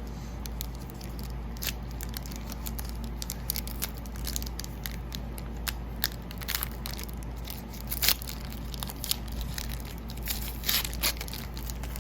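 Foil trading-card pack wrapper crinkling and tearing as packs are opened and cards handled: scattered crackles and snaps, the sharpest about eight seconds in and again near eleven seconds. A steady air-conditioner hum runs underneath.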